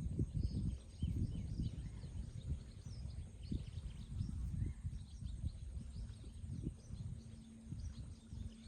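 Outdoor ambience: many small birds chirping over an uneven low rumble.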